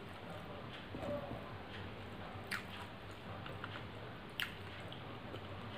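Close-up eating sounds: a person chewing a mouthful of rice with wet mouth smacks, and fingers squishing rice on a metal plate. Two sharp clicks come about halfway and about three quarters of the way in.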